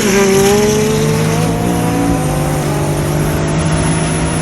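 Drag-racing vehicle's engine accelerating hard, loud; its pitch falls suddenly at the start, then climbs slowly and steadily.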